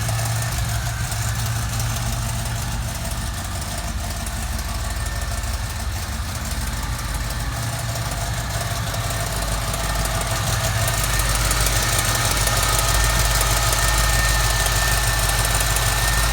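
Chevy small-block V8 idling steadily soon after a cold start, getting a little louder about two-thirds of the way through. The owner puts a ticking at idle down to the catalytic converter, which he says this engine is not really meant to have.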